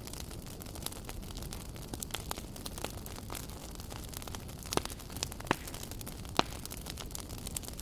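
Wood fire crackling in a fireplace: a steady low rush of flame with frequent sharp pops and snaps, and a few louder snaps in the second half.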